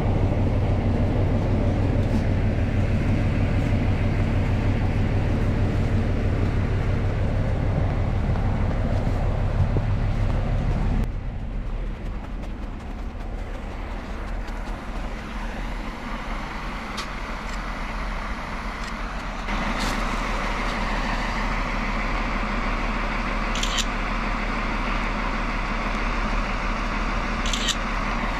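Diesel locomotive engine idling with a steady hum. It drops quieter about eleven seconds in and comes back louder and noisier near twenty seconds.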